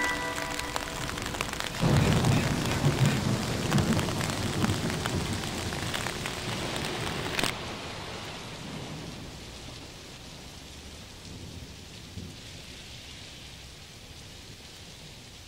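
Steady rain with a rolling thunder rumble starting about two seconds in. The rain's hiss drops suddenly about halfway through, and the rain then fades away slowly.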